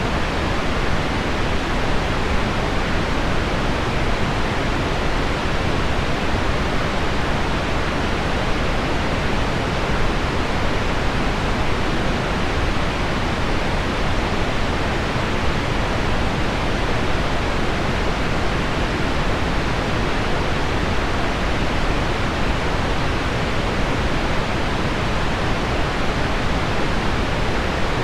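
Heavy rain on window glass blended with deep pink noise: a steady, even hiss with no breaks or changes.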